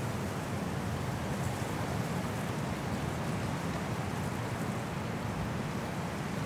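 Strong wind blowing steadily through forest trees in a snowstorm, a continuous deep rushing noise with no gusts standing out.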